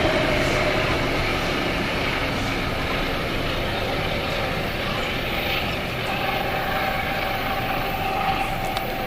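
Metro-North push-pull train with its GE P32 Genesis diesel locomotive trailing, running past: a steady rumble of engine and wheels on rail that slowly fades.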